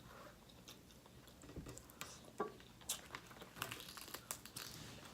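Faint close-up eating of seafood: scattered small clicks and crackles of chewing and handling the food, starting about one and a half seconds in.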